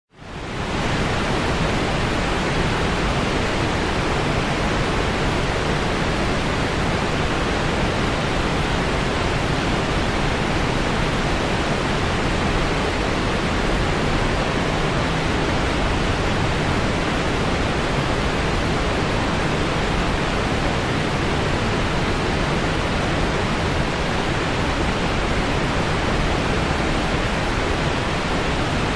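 Steady white noise, an even hiss with no pattern or change, fading in over the first half second.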